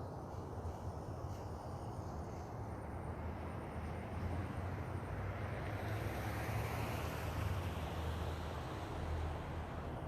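A vehicle passing outdoors: a rushing noise that swells about halfway through and fades near the end, over a steady low rumble.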